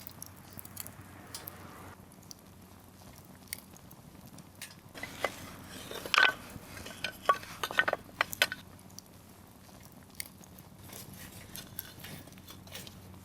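Wood campfire crackling, with scattered sharp pops from the burning firewood and a louder burst of pops about halfway through.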